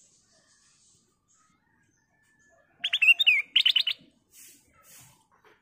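Black-crested bulbul singing one short, loud phrase about three seconds in: a few quick slurred whistles followed by a fast run of about five sharp notes. Faint soft hissing puffs follow near the end.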